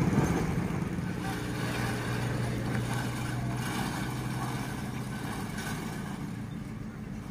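Diesel passenger train running away from the crossing. Its steady low engine hum and rumble fade out gradually.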